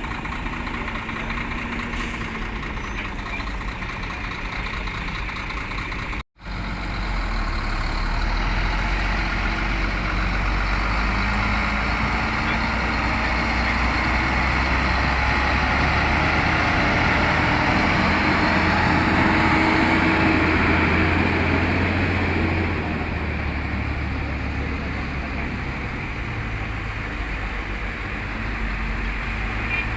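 Diesel engine of a ten-wheel Howo dump truck running, growing louder from about seven seconds in and easing back a little after twenty-two seconds. The sound cuts out for an instant about six seconds in.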